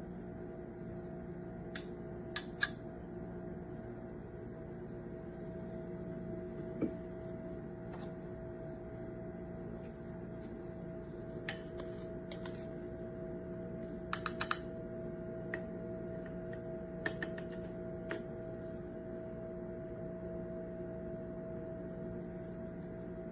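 A steady low electrical hum with scattered light clicks and taps, a few of them close together about fourteen seconds in.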